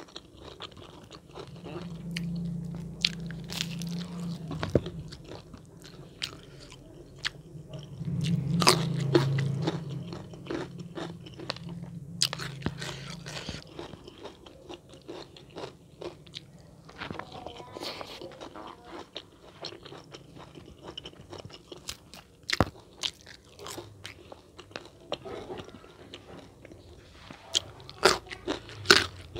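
Close-up eating sounds: a person chewing and crunching a mouthful of food, with many short, sharp crackling bites.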